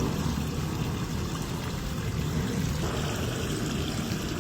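Water rushing out of a kiddie pool as it is emptied, a steady pouring rush.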